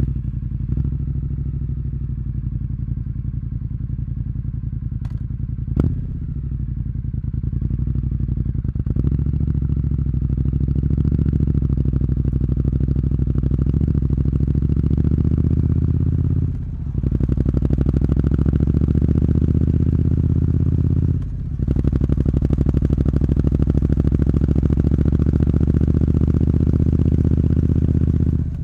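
Triumph Street Scrambler's 900 cc parallel-twin engine idling through a Zard aftermarket muffler with the stock catalytic converter still in place. The idle is steady, briefly dipping twice in the second half.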